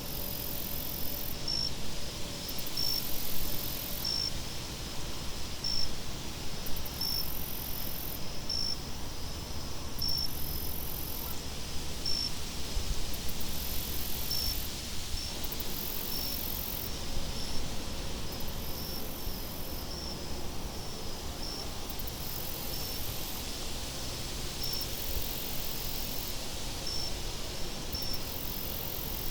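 Crickets chirping in a steady rhythm, about a chirp a second, with a higher insect trill switching on and off every second or so, over a low steady wind rumble.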